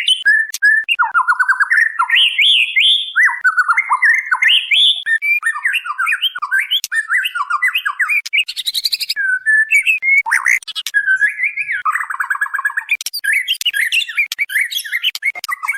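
White-rumped shama (murai batu) singing nonstop: fast, varied phrases of chirps, rapid trills and quick up-and-down sweeps. The track is sold as a female calling to a male, played as a lure to provoke male shamas into singing.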